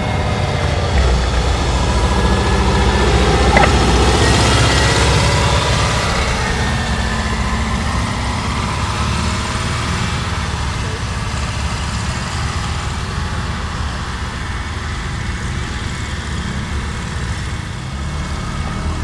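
Air-cooled Volkswagen flat-four engine of a WWII military vehicle running, loudest about four seconds in and then slowly fading.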